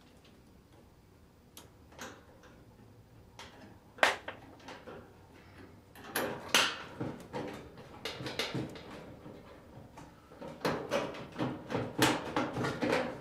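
Tombstone lamp-holder bar being fitted into a sheet-metal fluorescent light fixture by hand: scattered clicks and knocks, the sharpest about four seconds in, with denser clattering near the middle and again near the end.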